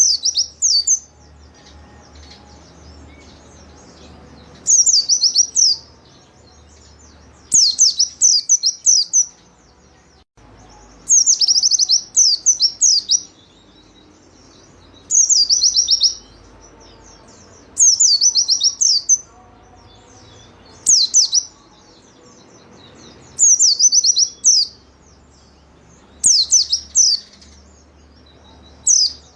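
A pleci (white-eye) singing in full song: short phrases of rapid, high, downward-sweeping notes, one phrase about every three seconds.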